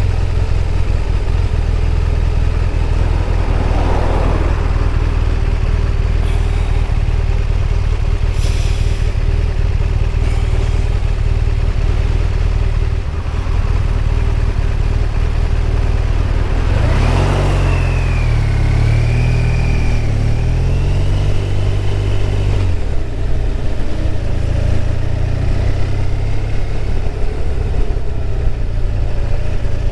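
BMW R1200RT's boxer twin running at road speed under a steady low rumble of wind and road noise. The engine note changes and climbs between about 17 and 23 seconds in, and two brief whooshes pass near 4 and 17 seconds.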